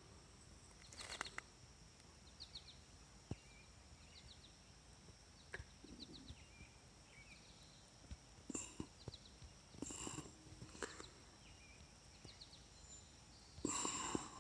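Quiet pond-side nature ambience: small birds give short quick chirps about once a second over a faint steady high-pitched tone, with a few soft clicks. A louder, fuller burst of sound comes near the end.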